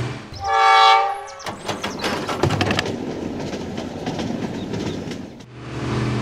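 A train horn sounds once for about a second, then a train runs on rails with a clattering of clicks for about four seconds. A steady small-motor hum comes back near the end.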